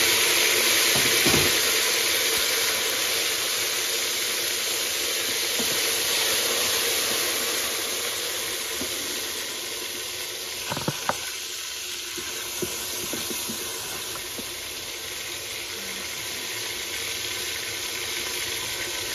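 Chopped tomatoes sizzling in hot oil in a steel pot, loud at first and slowly dying down. A wooden spatula stirs them, knocking against the pot a few times.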